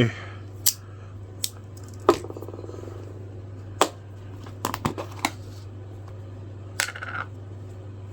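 Small objects handled on a workbench: scattered light clicks and taps, one about two seconds in with a short buzzing ring, over a steady low hum.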